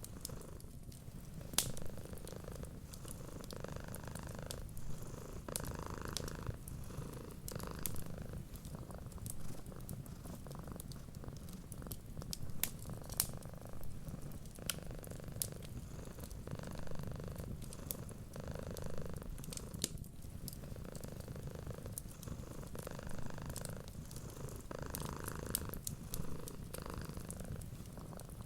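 A cat purring steadily, the purr swelling and easing with each breath every second or two. Scattered sharp pops of a crackling wood fire sound over it, the loudest about two seconds in and near the middle.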